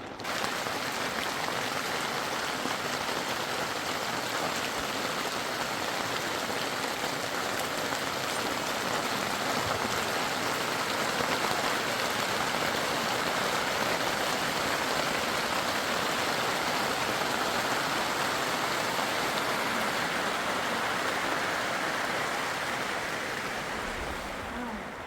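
A steady, even hiss of water, either heavy rain or fast-flowing floodwater, that starts abruptly and eases off near the end.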